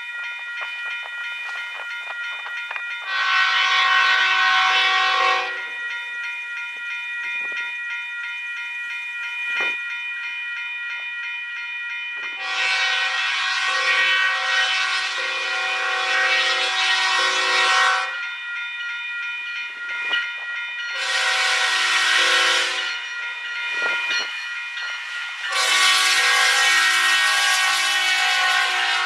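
Union Pacific freight locomotive's air horn blowing the grade-crossing signal: two long blasts, one short, then a long one, the standard warning for a crossing ahead. Steady high ringing tones run underneath the blasts.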